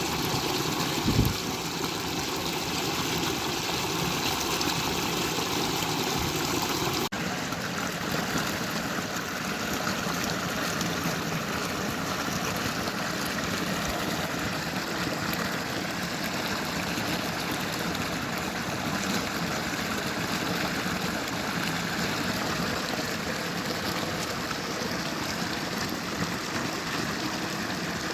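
A stream running steadily, a continuous rush of water, with a brief low thump about a second in. The water sound changes abruptly about seven seconds in.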